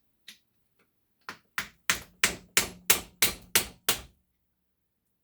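A hammer striking a screwdriver against a stuck brass water-heater valve fitting to collapse it: nine quick metallic blows, about three a second, with a low ring under them.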